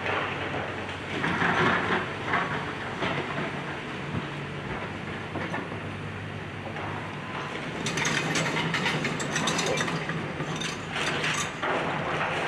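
Excavator's diesel engine running steadily while it demolishes a house, with bursts of clattering and crunching debris about a second in and again for several seconds near the end.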